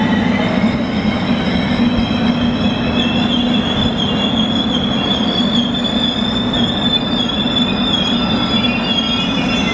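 Eight-car KORAIL Class 321000 electric multiple unit rolling slowly into a station and slowing to a stop: a steady low rumble with a high, wavering squeal from the train over it. A faint hiss comes in near the end.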